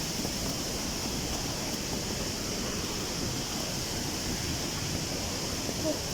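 Waterfall rushing as a steady, even wash of noise.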